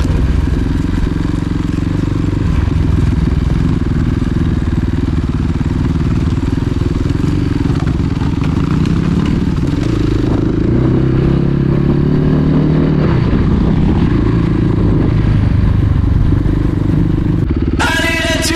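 Enduro motorcycle engine running while riding, its pitch rising and falling with the throttle.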